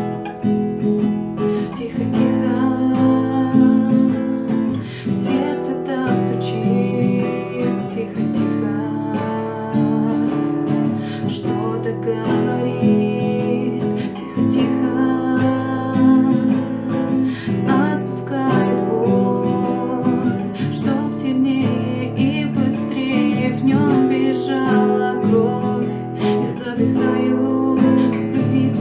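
Acoustic guitar strummed steadily, playing a pop song's accompaniment.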